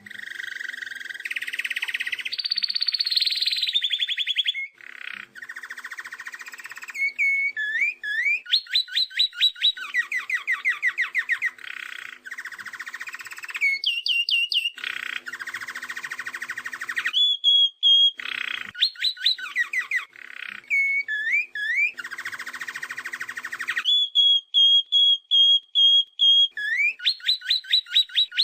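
A songbird singing a long, varied song: fast runs of repeated sweeping notes, buzzy rattling trills and held steady whistles, one phrase after another with short breaks.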